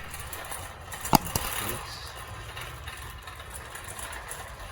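A faint steady hum of indoor background noise, broken by a single sharp click about a second in.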